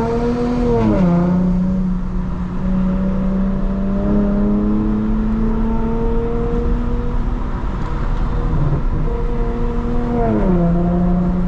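2022 Lexus IS350's 3.5-litre V6 pulling on the road through a midpipe with no secondary cats and a muffler-delete axleback, a steady drone. Its pitch drops with a gear change about a second in and again near the end.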